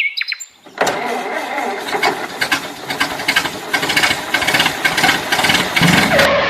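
Vehicle engine starting and running with a dense, rattling clatter, coming in about a second in and cutting off suddenly at the end.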